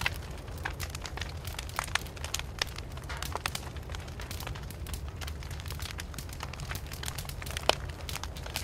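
Wood fire burning, crackling with irregular sharp pops over a low steady rumble; one louder pop near the end.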